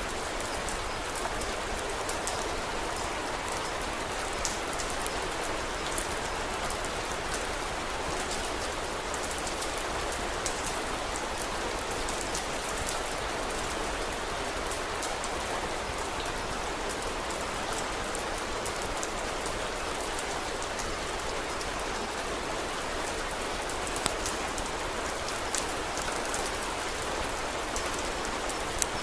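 Steady rainfall, with scattered sharp crackles from a wood fire; the crackles come a little more often near the end.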